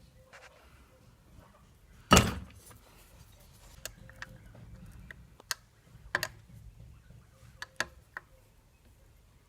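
One loud metallic clank about two seconds in, followed by a few scattered lighter clicks and taps: tools and engine parts being handled during a scooter engine teardown.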